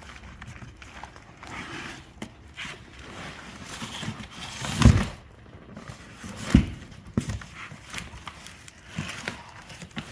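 Handling noise while unpacking a heavy steel anvil from its cardboard box and wood packing: rustling and small knocks, with two dull, heavy thumps about a second and a half apart near the middle.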